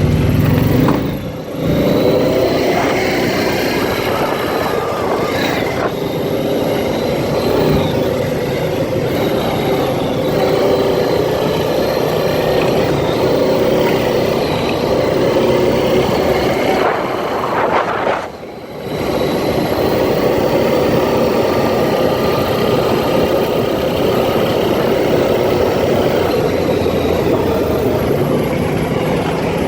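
ATV engine running steadily while riding. The level dips briefly about a second and a half in, and again around eighteen seconds in, right after a rising rev.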